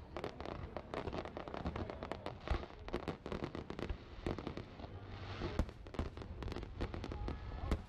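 Fireworks display: shells bursting in a rapid run of bangs and crackles, several a second, with a short stretch of hissing crackle a little past the middle.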